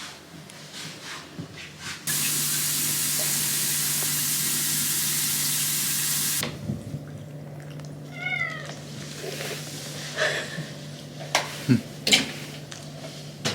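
A loud, steady hiss starts abruptly about two seconds in and cuts off about four seconds later. A couple of seconds after that, a domestic cat gives one short, wavering meow, followed by a few light knocks.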